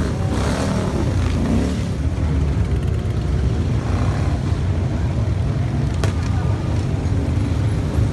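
Motorcycle engines running together in a steady, loud low drone, as of many bikes riding past. There is a single sharp click about six seconds in.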